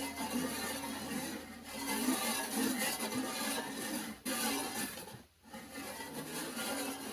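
Manual pressure-cooker cutting machine slicing through the wall of a pressure cooker, a continuous metallic rasping scrape that stops briefly about five seconds in.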